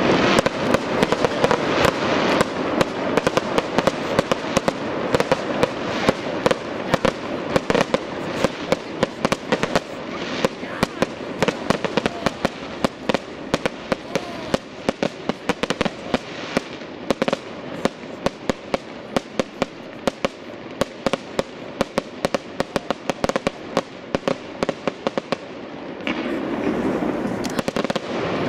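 Fireworks display: aerial shells bursting in a rapid, dense string of sharp bangs and crackles. The bangs thin out a little after the middle and swell into a louder rushing noise near the end.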